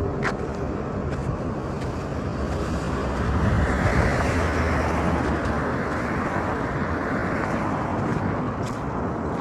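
Road traffic noise: a motor vehicle passes close by, loudest about four seconds in, over a steady background rush.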